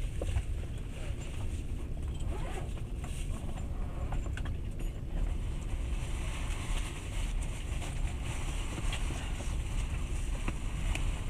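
Steady low rumble of a moving passenger train, heard from inside the carriage at the window, with a few faint scattered clicks.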